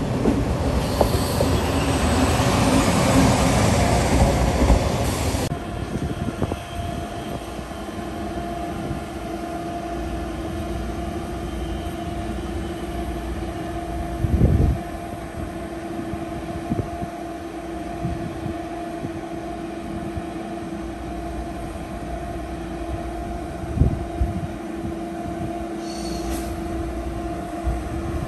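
For the first five seconds or so, a České dráhy diesel railcar approaches with a loud, noisy rumble, which stops at a cut. Then a Deutsche Bahn ICE electric train rolls slowly along a platform with a steady whine. A short thud comes about halfway through, and a few light clicks come near the end.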